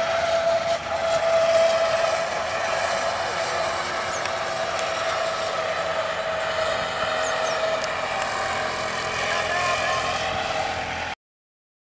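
Diesel-hauled Bangladesh Railway intercity passenger train, the Parabat Express, running past at a distance: a steady drone with a whining tone. The sound cuts off abruptly near the end.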